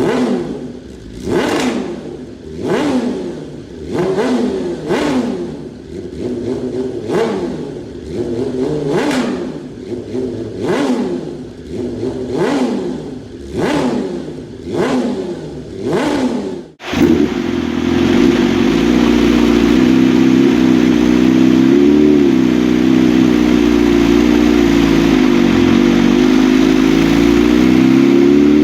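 BMW S1000 superbike's inline-four engine revved in quick blips, about one a second, each rising and falling in pitch. After a sudden break about two-thirds of the way in, it runs loud and steady at higher revs, its pitch climbing near the end.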